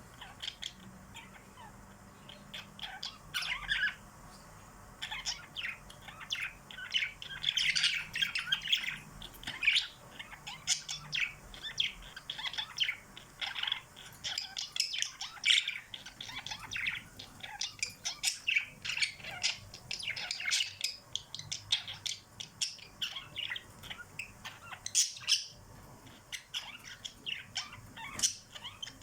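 Several small pet birds chirping and squawking in rapid short calls, with many birds calling over one another.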